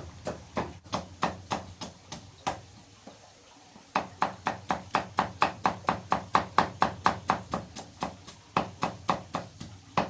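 Rapid, evenly spaced blows of a tool striking something, about three or four a second. They stop for about a second and a half a couple of seconds in, then resume.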